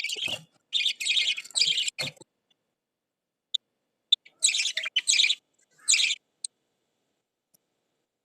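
Lovebirds giving harsh, buzzy chirping calls in short bursts. Three come close together, then after a pause of about two seconds two more bursts follow, with a few brief single chirps.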